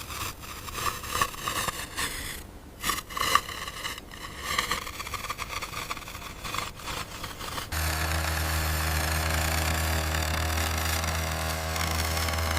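Irregular scraping and rattling of toy construction vehicles working sand. About eight seconds in, this switches abruptly to a steady, low heavy-engine drone, like a diesel excavator idling.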